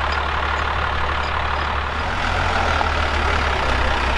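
Heavy truck diesel engine idling steadily, most likely the wrecker's Cummins 6BT turbo-diesel inline-six. Its low drone shifts slightly about two seconds in.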